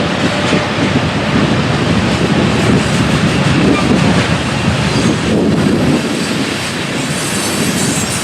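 A train's cars rolling past on the rails: a loud, steady rumble of wheels on track.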